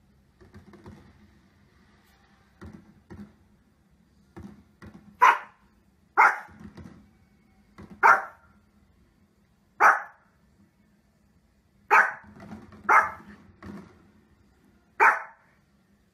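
A small cream-coloured spitz-type dog barking: seven sharp single barks, one to two seconds apart, starting about five seconds in.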